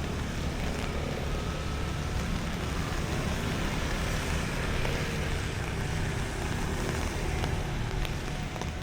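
Steady rain on a city street with motor traffic passing, a low rumble under the hiss of the rain.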